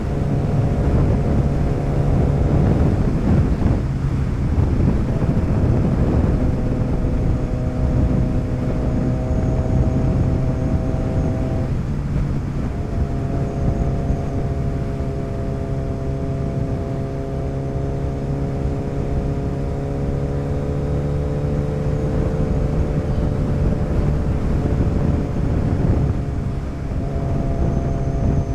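Motorcycle engine running while riding on the road, with wind noise on the rider's microphone. The engine note breaks and changes pitch about four seconds in, again about twelve seconds in, and near the end, as with gear changes.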